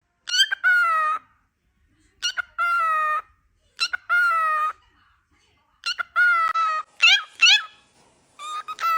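Cockatiel calling: about five long, slightly falling whistled calls, each opened by a quick short note, with two short rising chirps a little after the middle.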